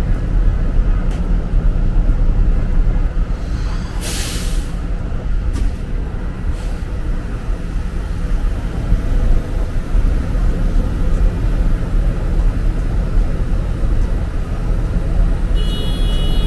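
City street traffic rumbling steadily, with a short sharp hiss about four seconds in. A high steady tone comes in near the end.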